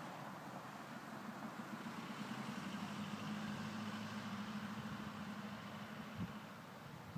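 Steady low hum of a vehicle engine running at idle, with a single light knock about six seconds in.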